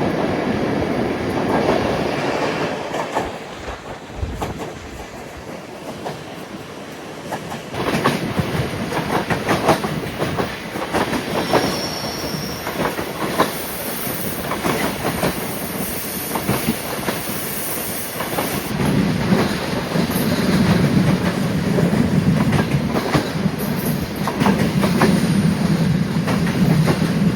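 Passenger train running along the line, its wheels clicking over rail joints, with a brief high wheel squeal about twelve seconds in. The running noise dips for a few seconds near the start, then the clicking returns, and a low hum joins it for the last several seconds.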